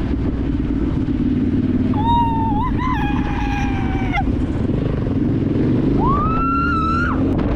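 Dirt bike engine running under way, with a passenger letting out two long, high-pitched screams, the first about two seconds in and the second, rising in pitch, near the end.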